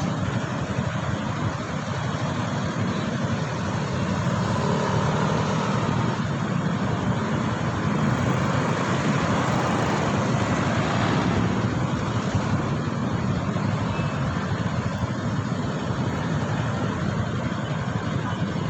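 Steady road and traffic noise with wind rush on the microphone, heard while riding through city streets.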